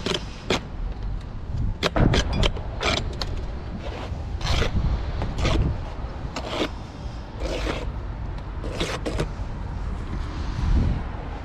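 Bricklayer's steel trowel scraping mortar and knocking on bricks, about a dozen short sharp strokes at irregular intervals, over a low rumble of wind on the microphone.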